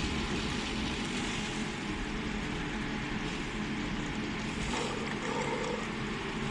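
Steady machine hum and noise, with a faint higher tone rising briefly about five seconds in.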